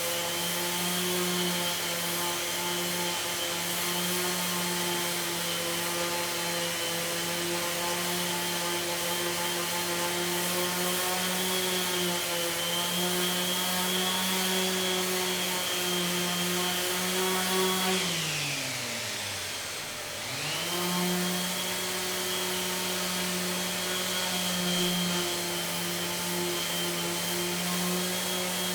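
An electric power tool's motor runs at a steady speed with a hum and a hiss. About two thirds of the way in it is switched off and winds down in pitch, then starts again and quickly spins back up to full speed.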